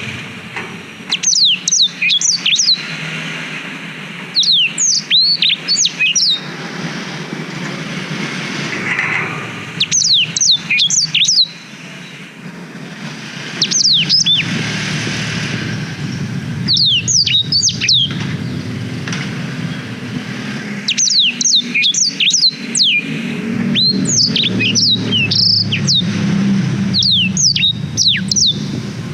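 Black-throated canary (blackthroat) singing in short bursts of rapid, sweeping chirps, a phrase every few seconds. A steady low rumble runs underneath.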